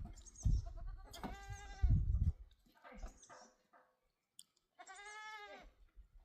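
Sheep or goats bleating: two long, wavering bleats, one in the first half and a second about five seconds in, with a shorter call between them. Low thumps and rumble come with the first bleat.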